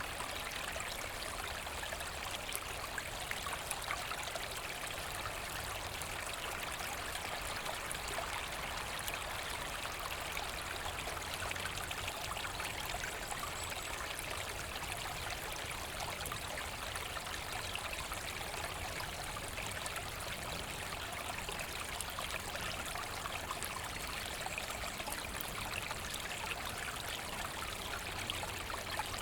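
Forest stream flowing and trickling steadily, an even rushing babble of water over stones.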